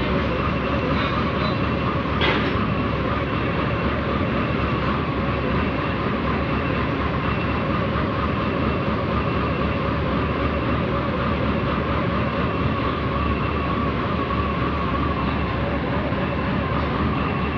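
Heavy diesel engine of construction equipment running steadily at a constant speed, a loud, even mechanical drone with a steady hum. A faint high beep repeats through it.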